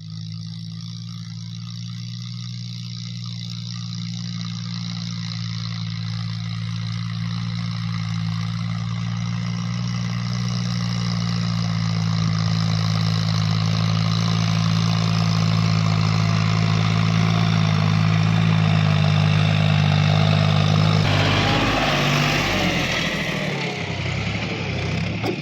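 John Deere 5055E tractor's diesel engine running steadily and growing slowly louder; about three-quarters of the way through, its even note breaks up into a rougher, noisier sound.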